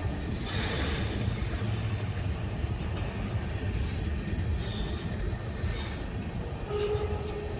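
Freight train cars rolling past at close range: a steady rumble of wheels on rail, with a brief squeal near the end.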